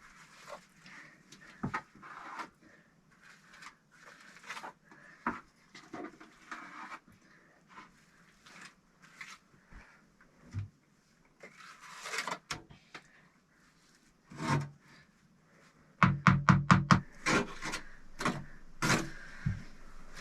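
Bricks being handled and fitted while building a stove: scattered scraping and single knocks, then a quick, louder run of sharp taps near the end.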